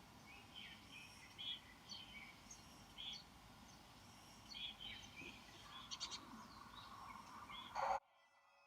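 Wild birds chirping in short, repeated calls over a faint background hiss. Just before the end, a louder burst, then an abrupt cut to a steady electronic tone.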